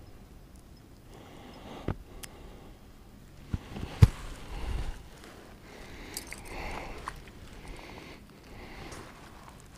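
A few sharp knocks and a dull low thump, the loudest about four seconds in, from gear being handled in a fishing kayak, over a soft steady rush of wind.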